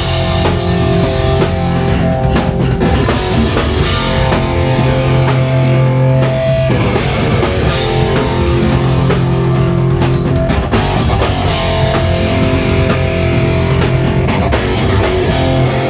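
Hardcore band playing live: loud distorted electric guitars and bass holding heavy chords over a pounding drum kit and crashing cymbals, an instrumental stretch without vocals.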